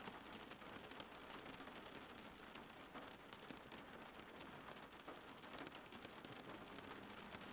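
Soft, steady rain falling, an even hiss of rain on surfaces scattered with many small drop ticks.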